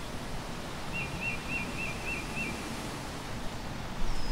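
Outdoor country ambience: a small bird sings a quick series of six short, identical high notes, about three or four a second, over a steady low rumble that grows louder near the end.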